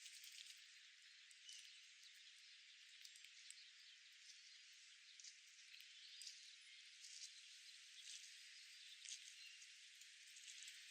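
Faint outdoor park ambience: a steady high hiss with scattered light ticks and a few brief, faint chirps.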